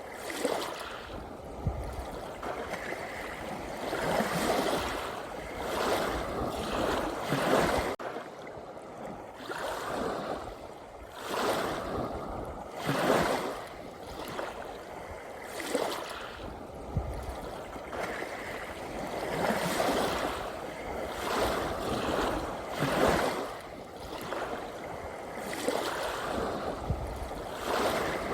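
Ocean waves breaking and washing, swelling in surges every couple of seconds over a steady hiss of water.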